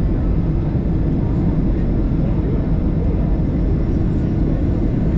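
Steady low rumble inside the cabin of an Airbus A320-214 during landing: its CFM56 engines and the airflow heard through the fuselage, with no distinct bangs or changes.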